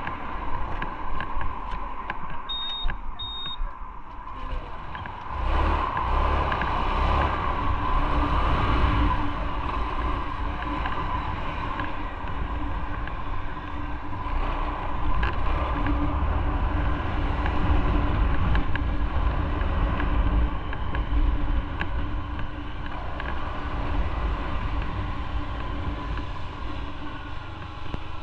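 Motorcycle riding on the road, its engine running steadily under road and wind noise. Two short high beeps sound about three seconds in, and a low rumble comes in about five seconds in and stays.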